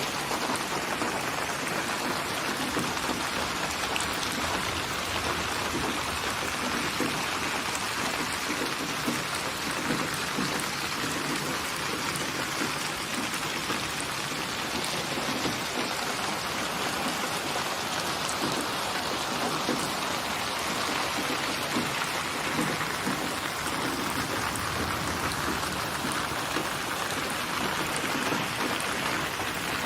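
Steady rainfall: an even hiss of rain with scattered droplet taps, holding a constant level throughout.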